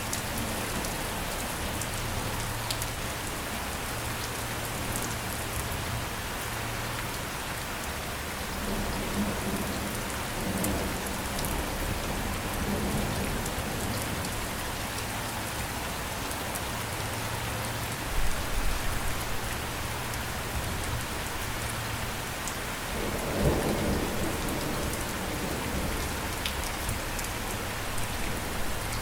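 Steady rain falling, with low rolls of thunder about a third of the way in and again about three-quarters of the way through.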